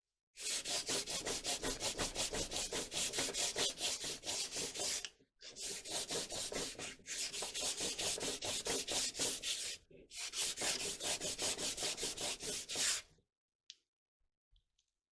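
Hand sanding with sandpaper, quick even back-and-forth strokes in four runs with brief pauses, taking off excess dried glue. The sanding stops about two seconds before the end.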